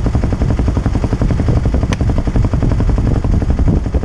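Kawasaki KLX250's single-cylinder four-stroke engine idling, a fast, even low thumping, with one sharp click about two seconds in.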